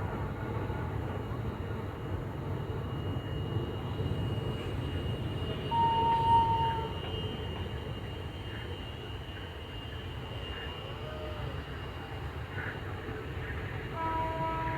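Passenger train rolling past a platform, its wheels on the rails giving a steady low rumble. A short horn blast comes about six seconds in, and another horn with several tones starts near the end.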